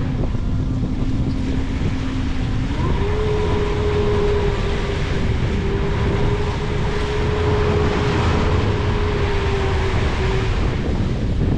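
Boat engine running, throttled up about three seconds in to a steady higher pitch as the boat gets under way to trawl, under loud, steady wind noise.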